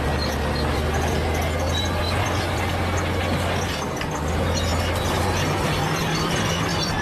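Crawler bulldozer at work: its diesel engine running steadily under a heavy clatter from the steel tracks, with short high metallic squeaks scattered through.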